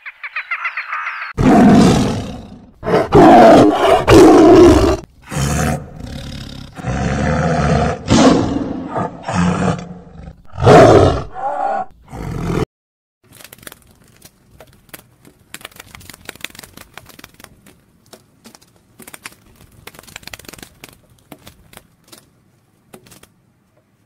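A big cat growling and roaring in a series of loud, deep calls of about half a second to a second each, lasting until about halfway through. The second half holds only faint, scattered clicking.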